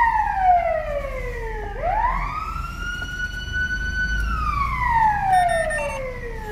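Fire engine siren wailing: the tone slides slowly down, sweeps quickly back up about two seconds in, holds high for a couple of seconds, then slides down again and starts to rise near the end. A steady low rumble of the moving truck runs underneath.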